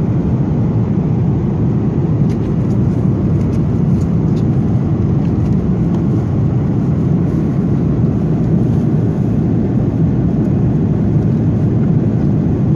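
Steady, loud rumble of an Airbus A330-300's jet engines and airflow heard inside the economy cabin in flight, an even low-pitched noise with no change.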